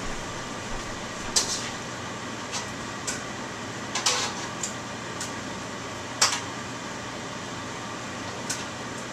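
Utensils clinking a few times against the wok and plate as the stir-fried seafood is plated, over a steady fan-like hum. The clearest clinks come about a second and a half in and about six seconds in.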